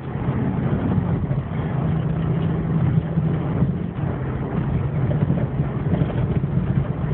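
Opel Frontera's 3.2-litre V6 engine running at fairly steady revs under way, heard from inside the cabin over a steady wash of road noise.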